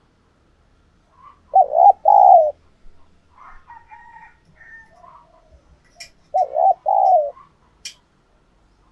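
Spotted dove cooing: two short phrases of two notes each, about five seconds apart. Fainter, higher calls come in between, and there are a couple of sharp clicks.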